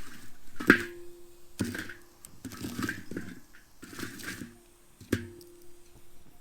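Wood fire in a fire pit crackling, with two sharp pops and short bursts of hissing between them.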